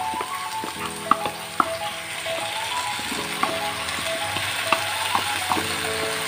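Tomato-and-onion masala sizzling in a non-stick pan while a spoon scrapes ground pepper paste out of a plastic bowl, with a few sharp taps and scrapes scattered through the steady frying.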